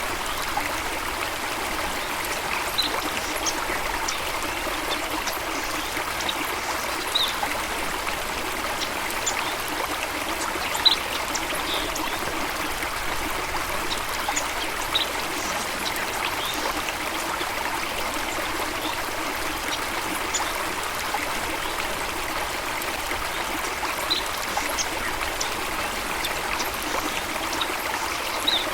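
Running water of a stream, flowing and trickling steadily, with short high ticks or splashes here and there.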